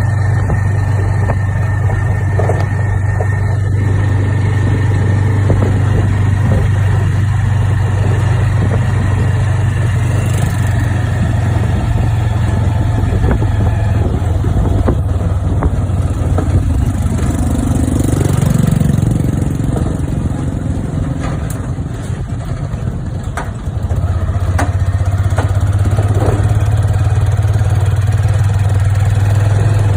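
A motor engine running steadily with a low, even drone. It eases off for a few seconds past the middle, then picks up again.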